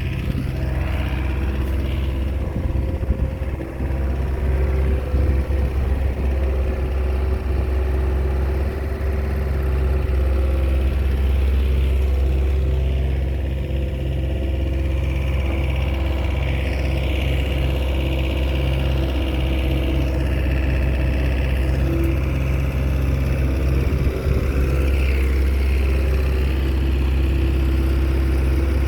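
Komatsu bulldozer's diesel engine running steadily under work, with small rises and falls in level.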